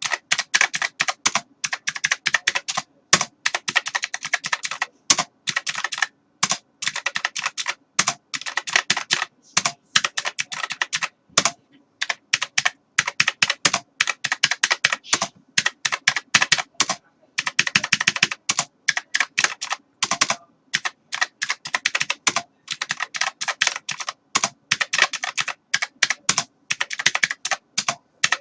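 Typing on a computer keyboard: quick runs of key clicks, broken every few seconds by short pauses.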